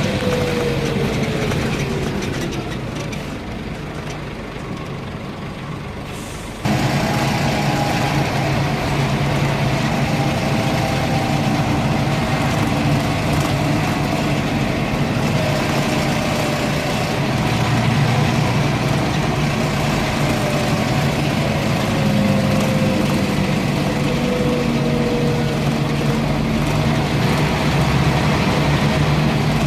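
Scania N230UB single-deck bus's engine and drivetrain heard from on board, its whine falling as the bus slows at the start, then quieter for a few seconds. About seven seconds in the sound turns abruptly louder and the bus runs on under way, with a whine that glides up and down as its speed changes.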